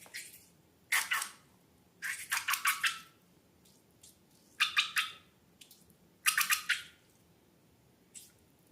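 Rubber balloons squeaking in four short, high-pitched bursts, the longest a quick run of squeaks about two seconds in.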